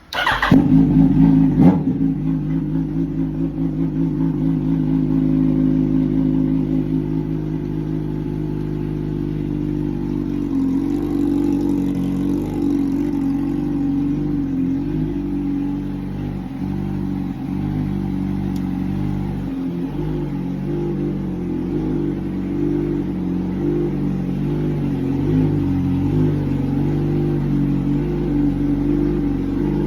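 2005 Yamaha R1's inline-four engine starting up with a sharp burst, running a little higher for several seconds, then idling steadily.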